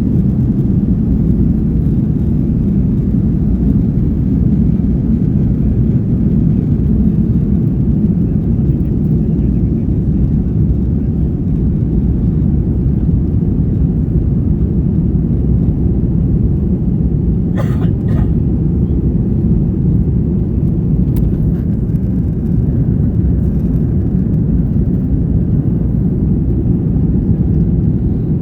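Airbus A330 jet airliner during take-off: a steady, loud low rumble of engines and rolling, with one brief rattle or click a little past halfway.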